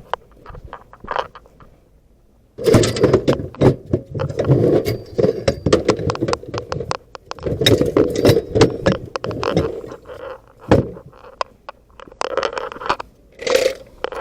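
Handling of tools and metal parts: a busy run of clinks, knocks and scrapes that starts suddenly a couple of seconds in and goes on to the end.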